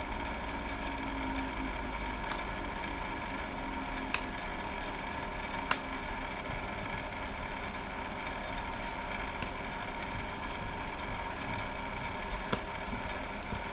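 Steady hum of electrical bench equipment, with a few sharp clicks scattered through it as small phone parts and tools are handled.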